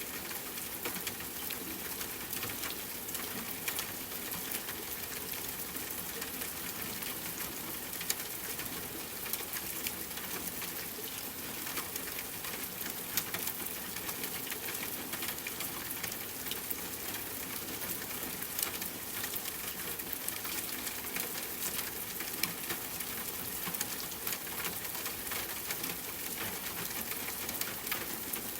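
Steady rain falling on a tent, mixed with campfire crackling: an even hiss dotted with many small sharp ticks.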